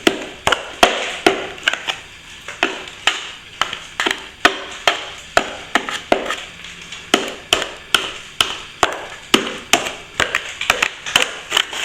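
Hand plastering tool tapping and scraping against plaster while cornice cement is worked into a crack and firmed up: a quick, irregular run of sharp taps, two or three a second.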